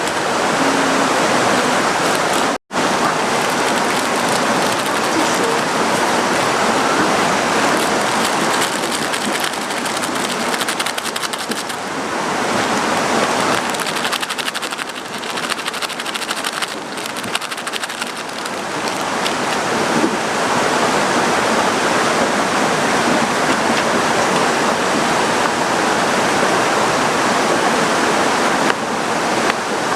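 Heavy downpour: a loud, steady hiss of rain and running water, cutting out for an instant about three seconds in.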